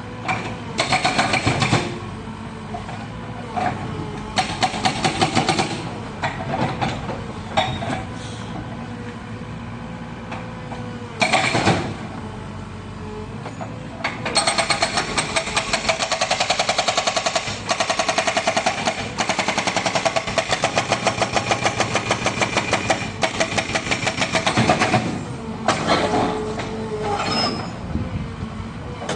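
Hydraulic breaker on a Caterpillar 307 excavator hammering in bursts of rapid, evenly spaced blows. Several short runs are followed by one long run of about eleven seconds, with the excavator's diesel engine running underneath.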